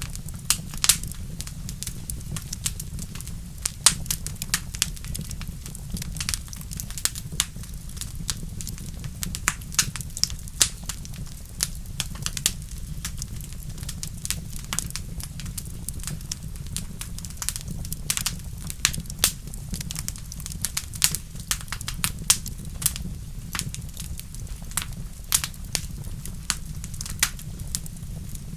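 Wood fire burning in a fireplace, crackling with frequent sharp pops, some louder than others, over a steady low rumble.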